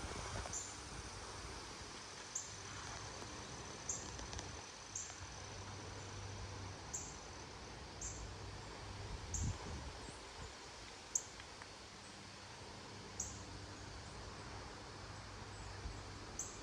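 Steady, soft outdoor background noise with short high-pitched chirps or ticks recurring about every one to two seconds.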